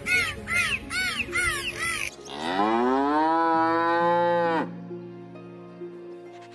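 A cow moos once, a long call that rises in pitch and then holds before breaking off, over steady background music. Before it, for about two seconds, a quick run of short, repeated squeaky calls, about two or three a second.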